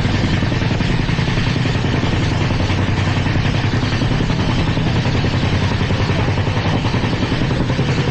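Indian Railways LHB passenger coach running at speed: a loud, steady rumble of wheels on rail with a dense, fast rattle over it.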